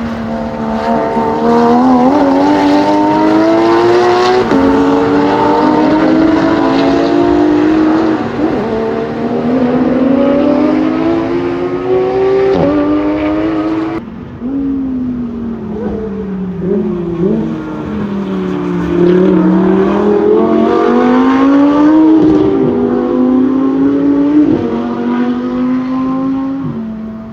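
Race car engines on a circuit, climbing in pitch as they accelerate and dropping back at each gear change and under braking, over and over. The sound changes abruptly about halfway through.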